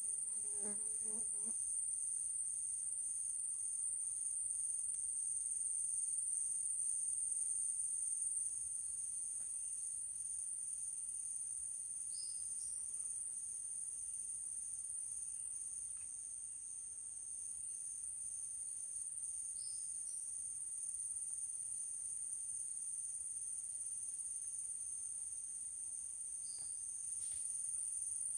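Chorus of crickets trilling steadily at a high pitch: one continuous whine with a pulsing layer just below it. A brief low pitched sound comes in the first second or so.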